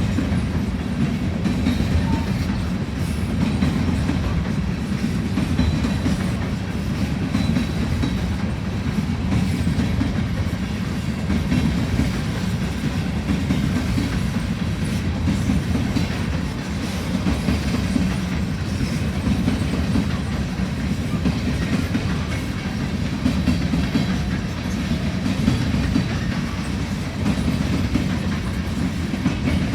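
Freight train rolling past, a steady low rumble of steel wheels on the rails.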